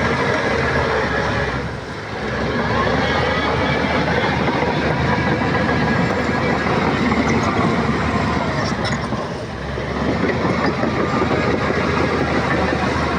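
Shantui crawler bulldozer's diesel engine running with its steel tracks rolling. The sound eases briefly twice, about two seconds in and again near ten seconds, then comes back up.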